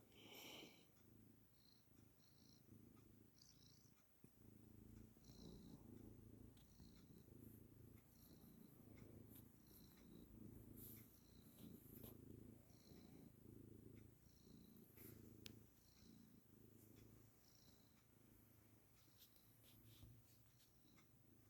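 Domestic cat purring contentedly, a faint low rumble that swells and eases rhythmically with each breath.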